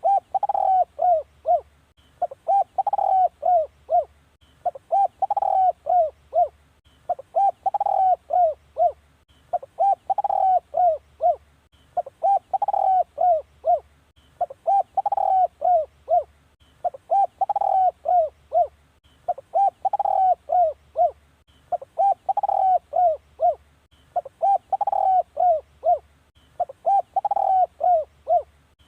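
Spotted dove cooing: a phrase of several short coos repeated evenly about every two and a half seconds, a decoy call used to lure wild spotted doves.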